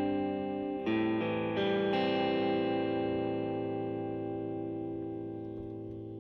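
Electric guitar played through a Suhr Shiba Drive Reloaded, a Tube Screamer-style overdrive pedal, with a mid-heavy, mellow overdriven tone. A few notes are picked in the first two seconds and then left to ring and slowly fade.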